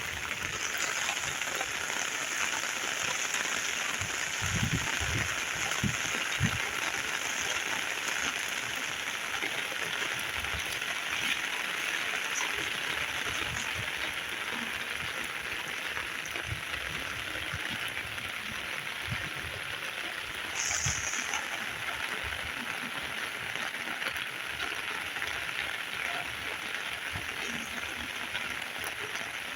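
Heavy rain falling steadily, an even hiss of drops on a surface, with a few brief low thuds about five to six seconds in.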